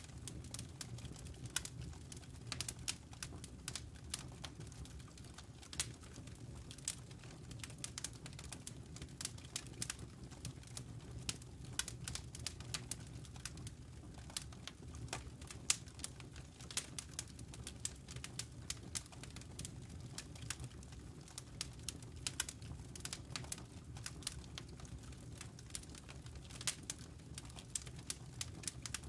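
Campfire burning, wood and embers crackling with frequent irregular sharp pops over a low steady rumble.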